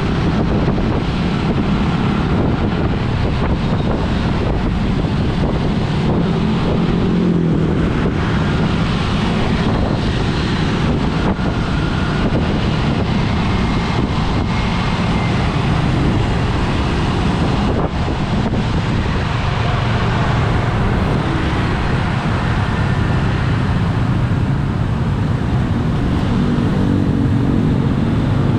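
Road vehicle in motion, its engine running with changing speed and heavy wind buffeting on the microphone.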